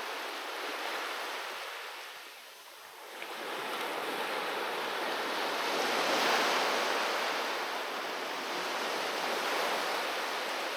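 Sea waves washing onto the shore: a short lull about two seconds in, then a wave comes in and swells to its loudest around the middle before slowly easing back.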